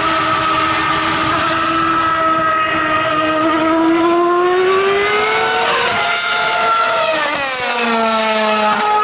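Formula One car's 2.4-litre V8 engine at high revs: a steady high whine that climbs in pitch about halfway through, then drops sharply in pitch near the end.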